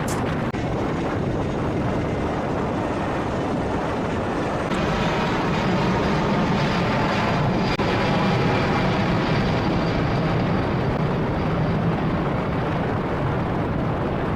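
Four Pratt & Whitney F117 turbofan engines of a C-17 Globemaster III running loud and steady. About five seconds in the sound steps up, with a stronger low drone and a faint high whine.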